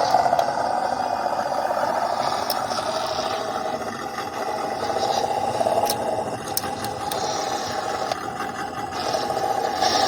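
Small electric motor and two-speed gearbox of a WPL B14 RC truck whining as it drives, the note rising and easing with throttle. Tyres and chassis scrape and rattle over dirt, with scattered sharp clicks.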